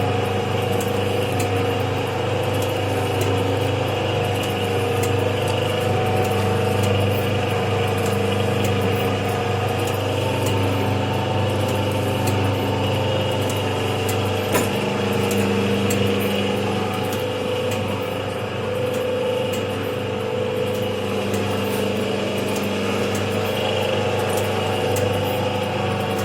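Automatic liquid packing machine for cooking oil running steadily: a constant motor hum with faint, regular mechanical ticks from its cycling, and one sharper click about halfway through.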